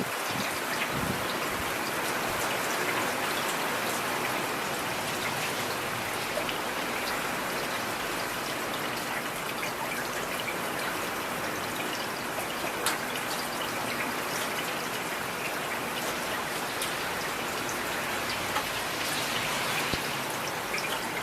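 Heavy rain falling steadily, with scattered individual drops ticking sharply over the wash.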